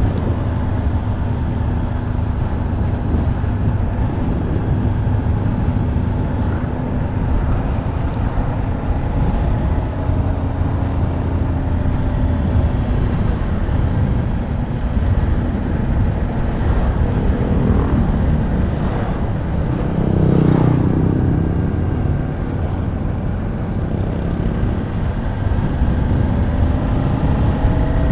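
Motorcycle engine running at a steady cruise while riding, with wind rushing on the microphone; the engine swells louder for a moment about twenty seconds in.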